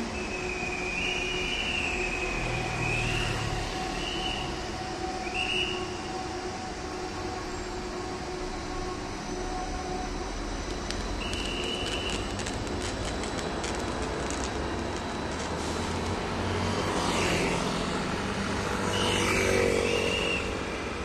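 Light rail train of two coupled sets running past, a steady rolling rumble with short high-pitched wheel squeals several times as it takes the track toward the bridge; it is loudest near the end.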